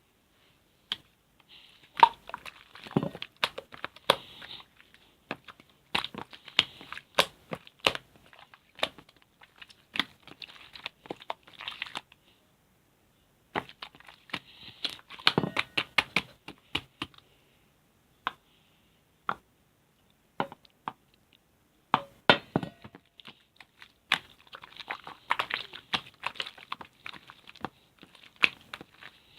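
Slime being squeezed and poked by hand: many sharp sticky clicks and pops over patches of crackling, with a short pause about twelve seconds in and only a few scattered clicks from about seventeen to twenty-two seconds.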